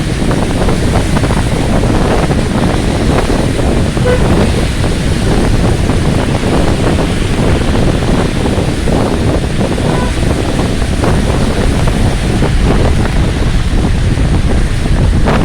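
Heavy rain pouring steadily, with wind rumbling on the microphone.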